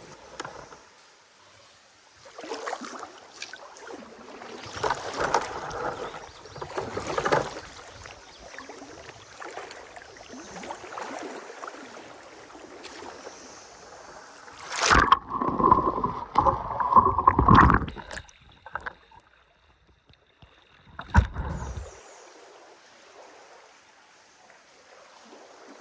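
Water sloshing and splashing around a boat on the river, as if from paddle strokes, in irregular bouts. A louder stretch of splashing and knocking comes about fifteen seconds in, and one sharp knock about twenty-one seconds in.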